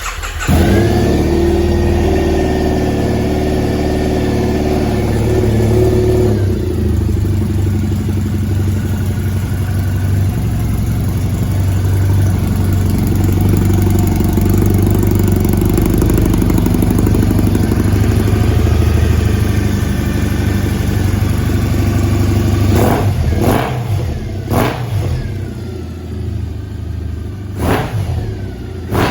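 2012 Triumph Thruxton 900's 865 cc air-cooled parallel-twin engine starting and running at a fast idle for about six seconds, then settling to a lower steady idle. Several quick throttle blips come near the end, each rev falling away again.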